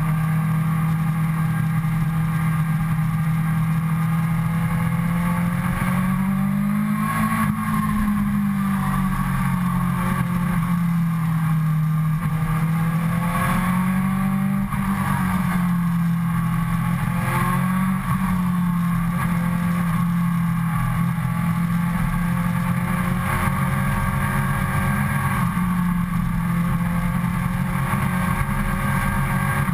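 Suzuki GSX-R sportbike's inline-four engine running at moderate, steady throttle, heard from a camera mounted on the bike. Its pitch rises about seven seconds in and eases back, then makes smaller rises and dips. Wind rumbles on the microphone underneath.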